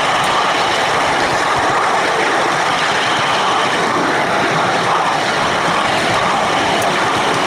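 Steady running noise of a 7¼-inch gauge miniature train heard from on board: wheels rolling on the rails with the locomotive running at an even pace.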